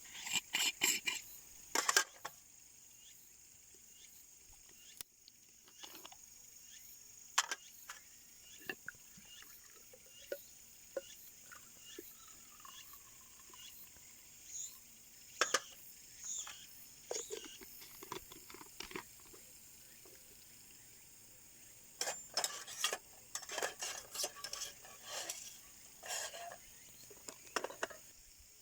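Irregular light clicks, taps and clatter of small objects being handled, busiest near the start and again in the last several seconds. Insects keep up a steady high chirring underneath.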